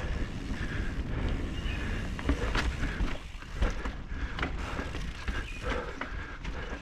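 Mountain bike rolling over rocky singletrack: tyres on dirt and rock with a few sharp clacks and rattles from the bike, over a steady low rumble of wind on the microphone.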